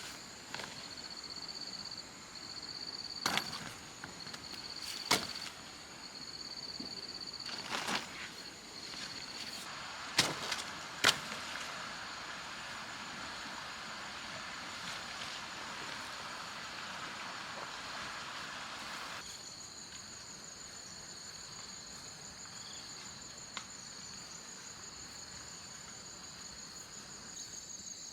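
Insects trilling steadily at a high pitch, with a few sharp knocks in the first half and a steady hiss from about ten to nineteen seconds in.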